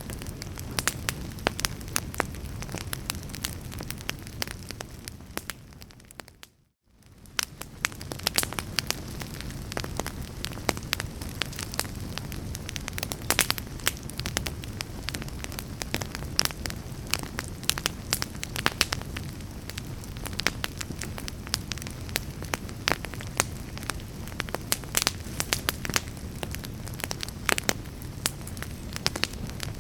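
Logs burning in a fireplace: a steady low rush of flame with frequent sharp crackles and pops. About six to seven seconds in the sound briefly fades almost to silence, then returns.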